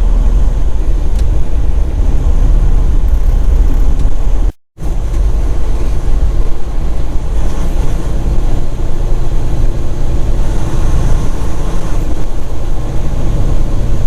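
Semi truck running, heard from inside the cab as a loud, steady low rumble. The sound cuts out completely for a fraction of a second about four and a half seconds in.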